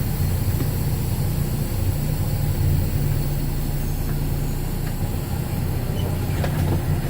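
Tractor-trailer's diesel engine running with a steady low hum during a service brake test, as the truck is eased forward and stopped on its service brakes. The engine note shifts slightly about two seconds in and again near five seconds.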